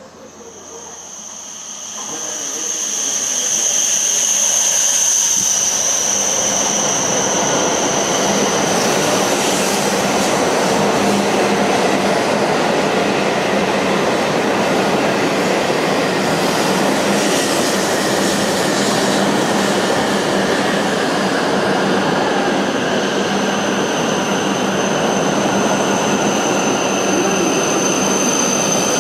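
E7-series Hokuriku Shinkansen train pulling into the station: a loud rushing of wheels and running gear that swells over the first few seconds and then holds steady. A high steady squeal rides over it at the start and comes back near the end.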